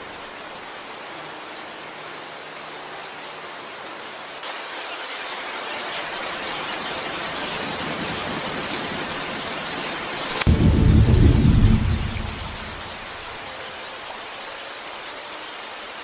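Steady rainfall that grows heavier about four seconds in, then a deep rumble of thunder about ten seconds in, the loudest sound, dying away after a couple of seconds while lighter rain continues.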